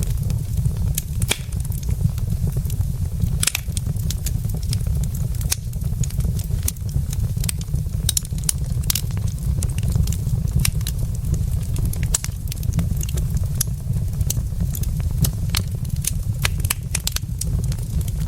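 Logs burning in a fireplace, crackling with frequent irregular sharp pops over a steady low rumble.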